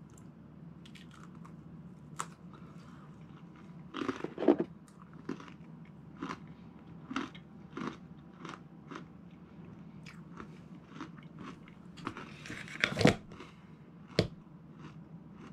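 A person biting and chewing a crisp Trader Joe's trail mix cracker spread with cookie butter: a string of short crunches, with louder bites about four seconds in and again near the end.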